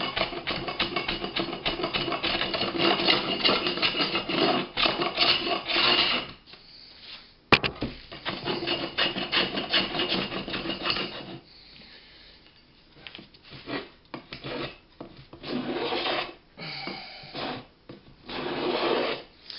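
A small hand plane scraping along a shelf edge in quick, rapid strokes. It runs in two long spells split by a short pause and a sharp knock, then goes quieter, with shorter bursts near the end.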